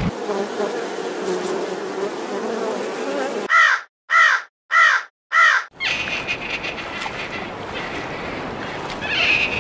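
A buzzing hum, then a bird calling four times in quick succession, each call short and rising then falling in pitch, followed by a steady hiss.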